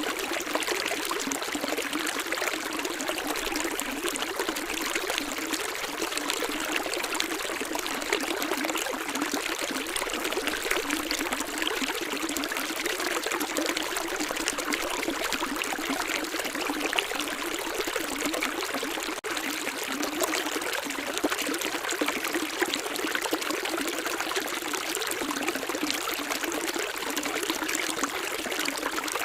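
Running water of a small stream, splashing and trickling steadily with no low rumble, with a momentary dropout about nineteen seconds in.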